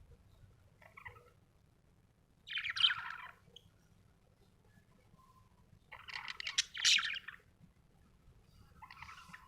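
Budgerigar chirping and chattering in short bursts: a faint call about a second in, a louder burst near three seconds, a longer one from about six to seven seconds, and a softer one near the end.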